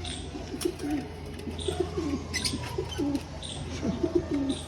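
Pigeons cooing over and over in short low rolling calls, with a few sharp clicks and some brief high chirps among them.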